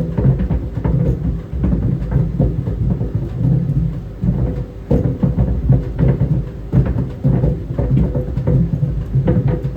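Tennis balls tumbling in a running clothes dryer, thumping irregularly against the drum several times a second over a low rumble.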